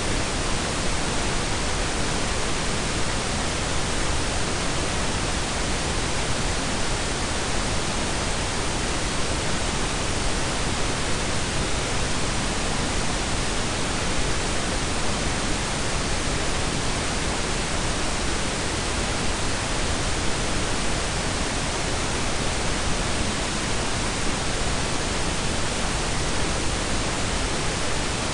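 Steady synthetic pink and brown noise blended together: an even, unchanging hiss with a deep rumble beneath it.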